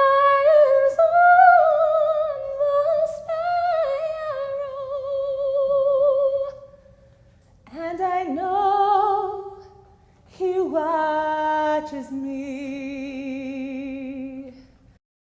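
A woman singing, holding notes with vibrato, in three phrases with short breaks between them. The last held note ends just before the close.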